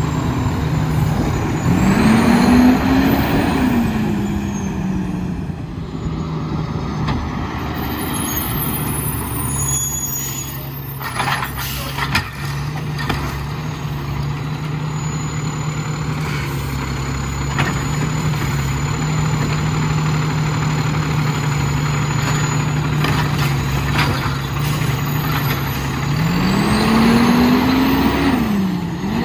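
Diesel engine of an Autocar WXLL garbage truck. It revs up and settles back, then runs steadily at a raised speed, and rises again near the end. A few sharp knocks come near the middle.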